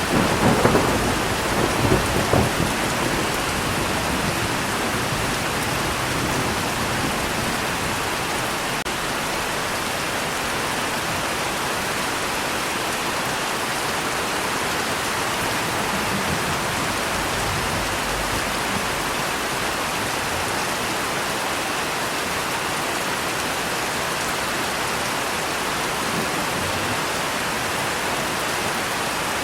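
Steady rainfall, with a rumble of thunder in the first two or three seconds.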